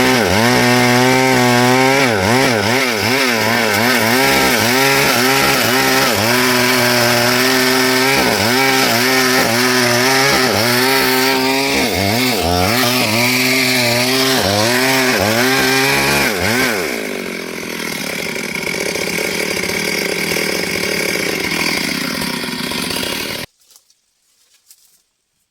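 Stihl MS382 two-stroke chainsaw cutting into a log, its engine pitch wavering up and down as it loads and recovers in the cut. About seventeen seconds in, the note turns to a steadier rushing run. Near the end the sound cuts off suddenly.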